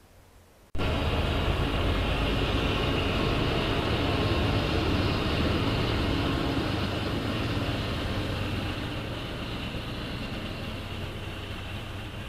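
BNSF and Norfolk Southern diesel freight locomotives passing close by. The sound starts abruptly under a second in, then holds as a loud, steady rumble of engines and rolling train with a low engine hum, easing off slowly in the second half.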